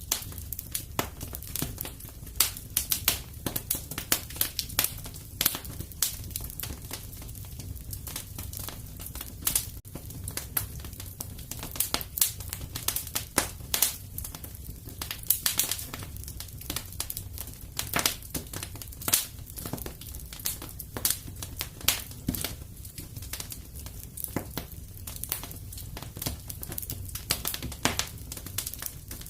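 Wood fire burning in a fireplace, with a steady low rumble under irregular sharp crackles and pops.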